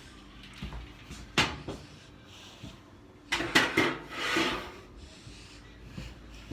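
Knocks and clunks of household handling in a kitchen: one sharp knock about a second and a half in, then a quick run of clunks about two seconds later, followed by a short scrape.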